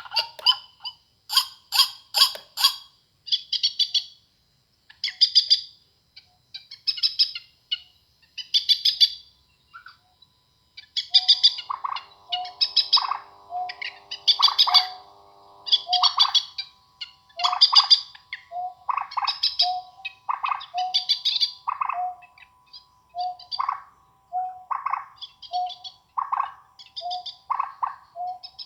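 Recorded bird calls played through a small amplifier and speaker under test: bright chirps repeating about once a second. A second, lower call pattern joins in about a third of the way through.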